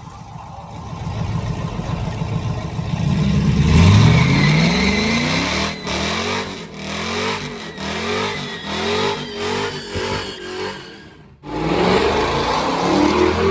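Truck engine revving hard: the pitch climbs steeply, then rises and falls rapidly over and over for several seconds. It cuts off suddenly near the end and revs up again.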